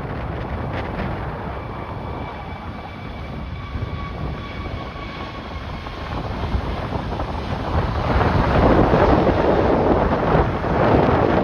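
Jet airliner engine roar with a faint steady whine, growing louder about eight seconds in, mixed with strong wind buffeting the microphone.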